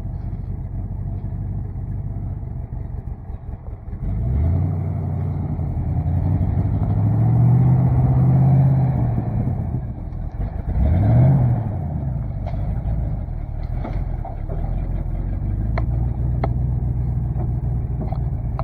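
Chevrolet C50 dump truck engine idling, then revving up about four seconds in and held for several seconds as the truck pulls forward under its own power. A second short rev and drop comes near the middle, then it settles back to a steady idle.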